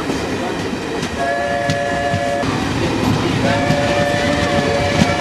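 Train horn sounding twice over the rumble and clatter of a moving train: a blast of just over a second, starting about a second in, then a second, longer blast from about three and a half seconds in.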